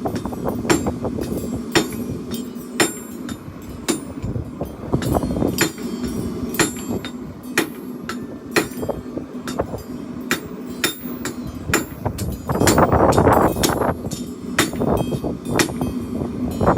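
Hammer striking hot steel on an anvil while forging a chopper blade, blows about once or twice a second with a bright ring after each. A steady low hum runs beneath, and a louder rushing noise swells for a second or so near the end.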